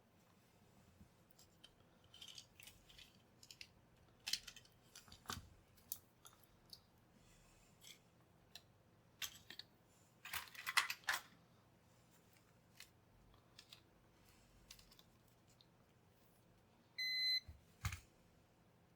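Scattered small clicks, taps and scrapes of small parts and tools being handled. Near the end a short steady electronic beep sounds, the loudest thing, followed by a knock.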